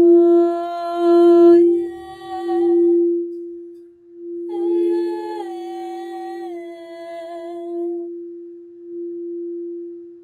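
A singing bowl ringing a steady, gently pulsing low tone, with a high wordless voice toning long held notes over it in two phrases, stepping between a few pitches.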